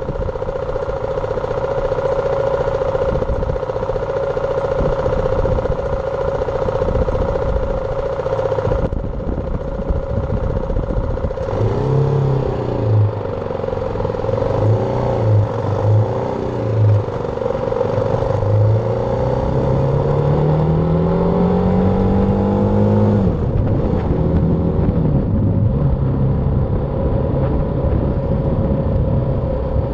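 BMW G310R's single-cylinder engine under way with wind rush, at first running at a steady pitch. From about twelve seconds in the engine note rises and falls in short pulses, then climbs steadily for a few seconds as the bike accelerates and drops abruptly near the three-quarter mark, as at a gear change.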